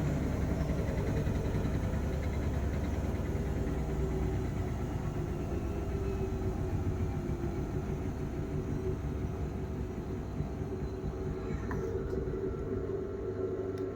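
Bosch washing machine slowing down at the end of a spin: a steady motor and drum hum whose pitch slowly falls and which grows gradually quieter. Its owner finds the machine super unbalanced.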